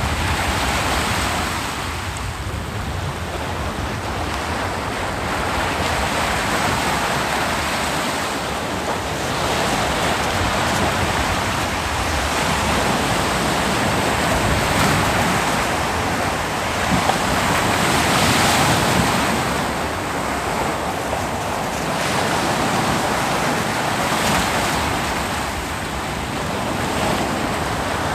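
Ocean waves breaking and washing up a beach: a continuous rushing surf that swells and eases every few seconds.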